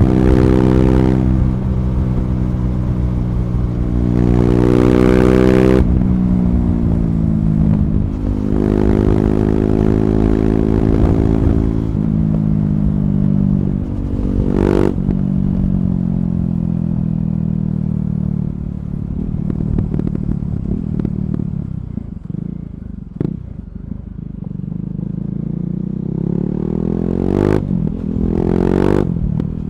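KTM Duke 390's single-cylinder engine through an Akrapovic slip-on exhaust with the catalytic converter removed (decat), under way. The revs hold for a few seconds and drop off several times, sit low and rough past the middle, then climb again near the end. A few brief sharp cracks are heard.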